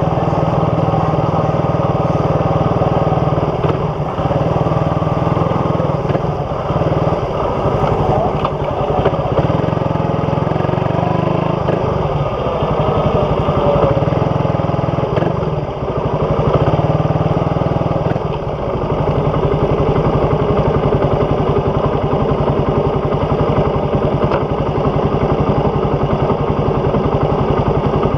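Suzuki Raider 150 single-cylinder four-stroke engine running through an aftermarket big-elbow, big-tip exhaust with no catalytic converter, giving a loud, steady exhaust note. The note dips and changes a few times along the way, as the throttle is let off and picked up again.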